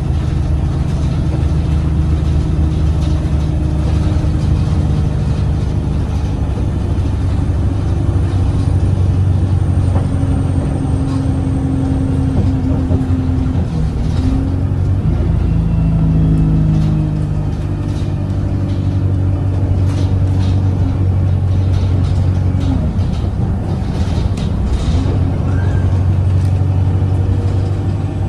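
Onboard sound of a bus's Cummins ISBe diesel engine and Voith automatic gearbox while riding, with the engine note changing pitch a few times as the bus speeds up and slows. Scattered rattles and knocks come through in the second half.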